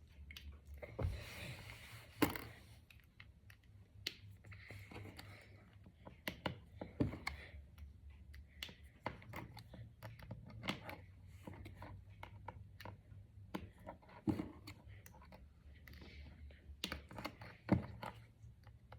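Small plastic brain flakes clicking and rattling as they are handled and pushed together into a chain: irregular light clicks with a few louder knocks, over a steady low hum.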